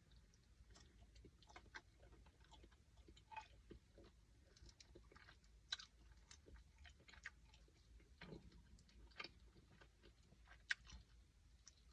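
Faint chewing and mouth sounds of a person eating: irregular small wet clicks and smacks, a couple of them sharper about six and eleven seconds in.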